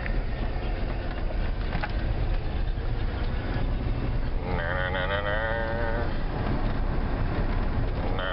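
1988 Ford F-150 pickup driving, its engine and road noise a steady rumble. From about four and a half to six seconds a wavering, pitched animal-like call rises over it, and it starts again near the end.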